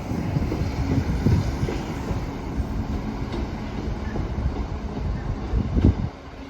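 A train running past on the rails: a loud, steady low rumble with occasional knocks from the wheels, the loudest just before the end, after which the sound drops away.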